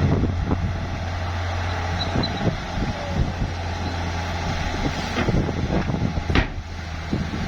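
Heavy bulldozer's diesel engine running steadily, with frequent short knocks as it works dirt and rock, and one sharp bang a little over six seconds in.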